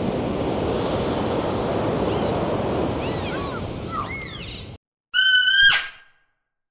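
A steady rushing noise like surf or wind, with a few faint arching calls, cuts off suddenly about five seconds in. It is followed by one loud, high, steady animal call lasting just under a second.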